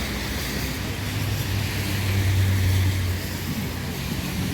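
Street traffic: a motor vehicle's low engine hum swells to its loudest about halfway through and then fades, over a steady hiss.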